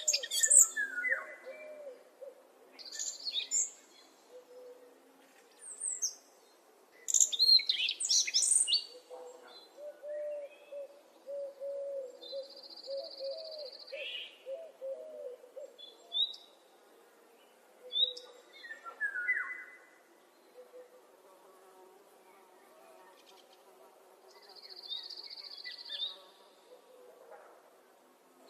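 Birds singing: short, high chirping phrases come and go throughout, over a low, repeated hooting call that runs in strings of notes, most clearly in the middle. Twice a steady, high, buzzy note lasting about a second stands out.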